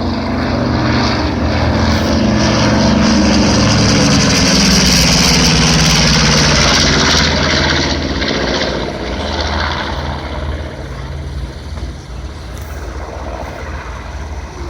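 B-25 Mitchell bomber flying past on its twin Wright R-2600 radial engines. The engine note swells to its loudest for several seconds, then falls in pitch and fades away after about eight seconds.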